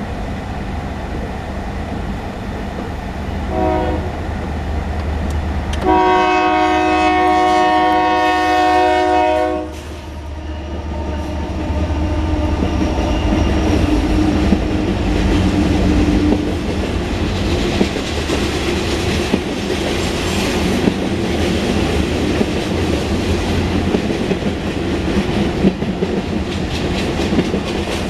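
Union Pacific freight train's diesel locomotive sounding its air horn for a road crossing: a short toot about three and a half seconds in, then one long blast of about four seconds, over the engine's rumble. The locomotive and cars then roll past, with steady rail noise and wheel clatter.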